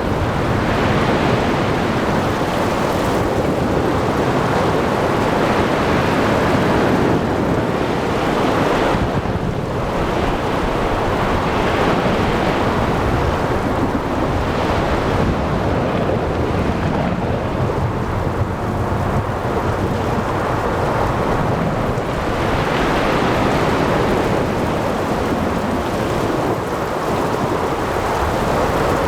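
Thunderstorm at sea: continuous heavy rain and wind with low rolling thunder, and surf swelling and breaking every few seconds.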